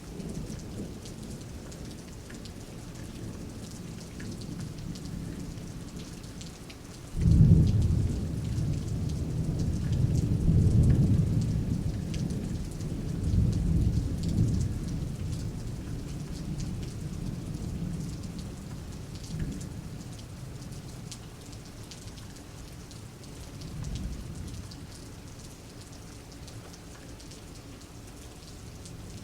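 Steady rain falling, with a clap of thunder breaking suddenly about seven seconds in and rolling on for several seconds before dying away; a faint further rumble comes near the end.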